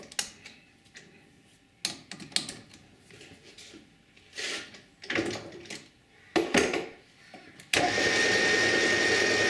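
Scattered knocks and clinks of metal tools and parts being handled, then near the end a steady machine whirring with a thin high whine starts suddenly.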